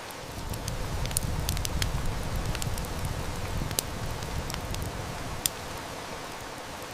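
Wood fire crackling and snapping, with scattered sharp pops and two louder ones in the second half, over a steady hiss of heavy rain. A low rumble swells about half a second in and fades after about five seconds.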